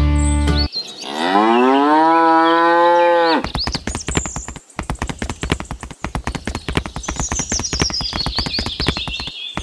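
A cow moos once, a long call that rises in pitch and then holds level for about two and a half seconds. It is followed by a quicker, quieter run of sharp clicks that lasts to the end.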